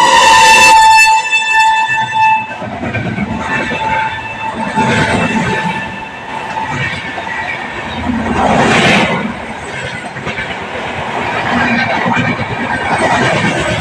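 Electric locomotive horn sounding one loud blast of about two and a half seconds, a chord of steady tones, then a high-speed passenger train running past with a continuous rush and rattle of wheels on the rails, swelling loudest about nine seconds in.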